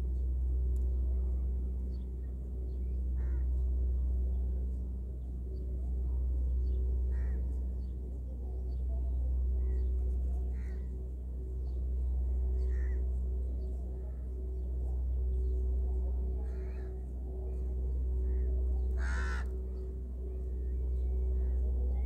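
Short bird calls, about a dozen scattered through, the loudest and fullest about 19 seconds in, over a steady low hum that swells and fades every three or four seconds.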